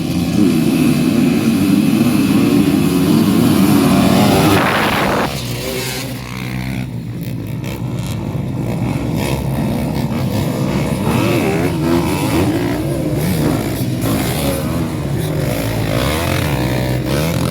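Many motocross dirt bikes revving hard together at a race start, loud for about the first five seconds, then dropping a little into continuous engine noise of bikes riding, the pitch rising and falling with the throttle.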